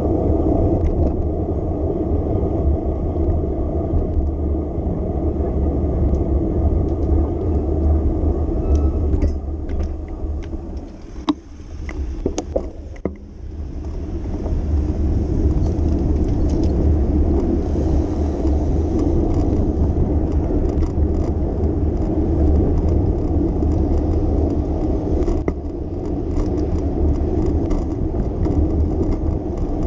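City street noise heard from a moving bicycle: a steady low rumble of road, tyres and passing traffic. About eleven seconds in it drops away briefly, with a few sharp clicks, then builds back up.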